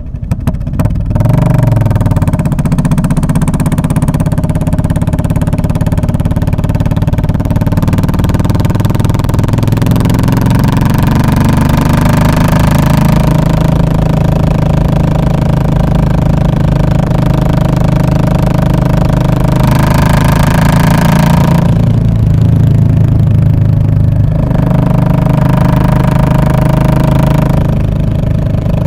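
Royal Enfield Classic 500's single-cylinder engine running loud through an aftermarket British-style muffler. It rises in pitch about a second in, then holds a steady exhaust note.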